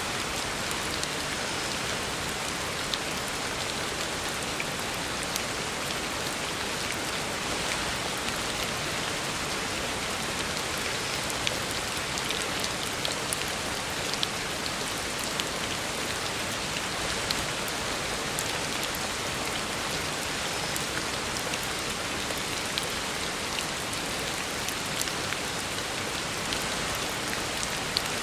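Heavy rain falling steadily on a road: an even hiss with many small, sharp drop splashes scattered through it.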